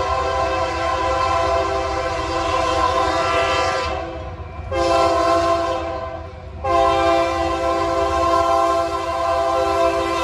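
Locomotive air horn sounding a chord of several tones in long blasts, broken twice near the middle, over the low rumble of the moving train.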